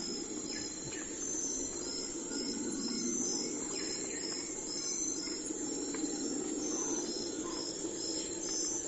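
Insects chirping in a steady pulsing rhythm, about two pulses a second, over a low steady background hum, with a few faint bird calls.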